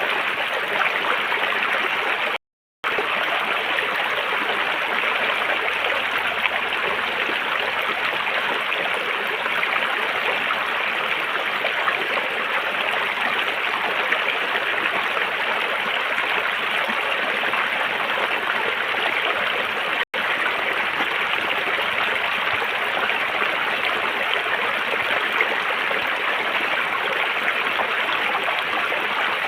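River water rushing and burbling in a steady, even flow. The sound cuts out briefly twice: for about half a second a couple of seconds in, and for an instant near twenty seconds.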